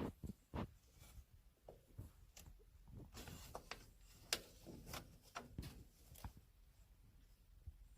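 Kittens moving about at play: faint, irregular light taps, scuffs and rustles, with a short rustling patch about three seconds in and a sharper tap a second later.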